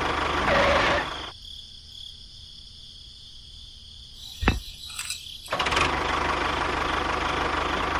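Small motor running steadily. It stops about a second in, a single sharp click comes midway through the quiet, and it runs again from about five and a half seconds in.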